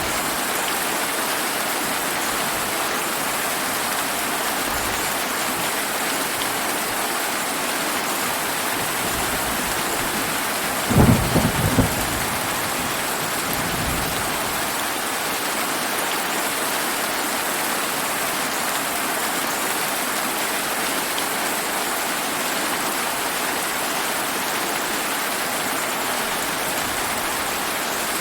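Steady heavy rain, with a short roll of thunder about eleven seconds in: a few loud cracks close together that rumble away within a couple of seconds.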